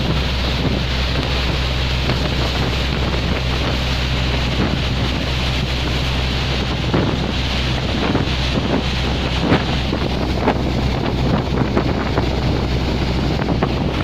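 Diesel-engined fishing boat under way at high speed: a steady low engine hum, kept quiet by a silencer that separates the exhaust from its water, under rushing water and wind buffeting the microphone. The gusts grow stronger in the second half.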